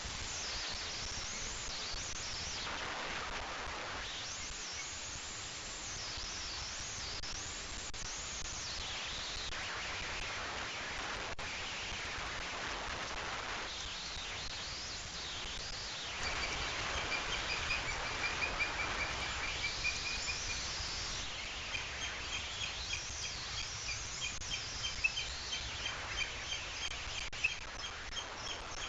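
Outdoor nature ambience with birds singing in sweeping, whistled phrases. About halfway through, a rapid series of short, evenly repeated chirps starts and keeps going over a steady background noise.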